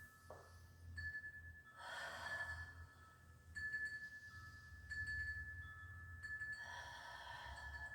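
A person breathing out heavily twice while holding a yoga pose, once about two seconds in and again near the end. Under it runs a faint, thin high tone that stops and starts.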